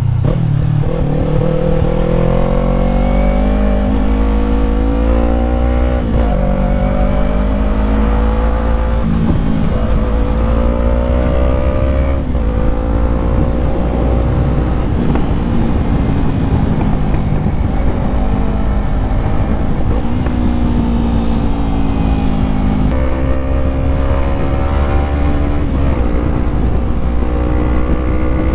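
Yamaha MT-03's 321 cc parallel-twin engine under way, its pitch climbing under throttle and dropping sharply at several gear upshifts, then easing off and picking up again near the end. Steady low wind rumble on the microphone throughout.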